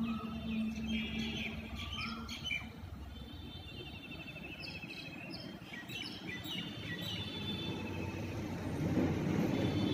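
Small birds chirping, a string of short high calls and quick trills, over a steady low outdoor rumble.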